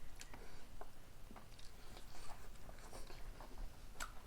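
A person chewing food close to the microphone, with an irregular scatter of short wet clicks and smacks from the mouth.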